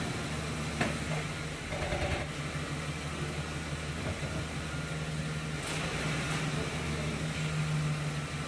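Ford Expedition's engine running at a steady low idle while the truck creeps slowly, with a few faint clicks.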